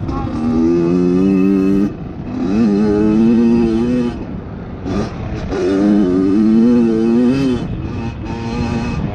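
Kawasaki KX100 two-stroke dirt bike engine being ridden hard: four bursts of throttle, each climbing in pitch and then dropping off sharply as the throttle is shut. The engine has just been rebuilt.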